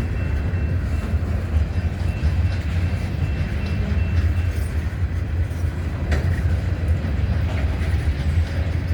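Freight train cars rolling past with a steady low rumble. A faint high squeal sounds in the first half, and a short sharp click comes about six seconds in.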